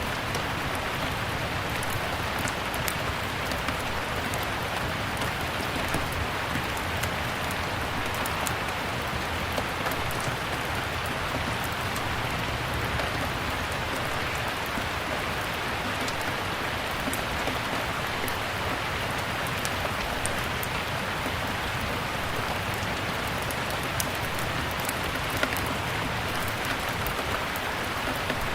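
Steady rain mixed with a crackling fireplace: an even hiss scattered with sharp pops and crackles.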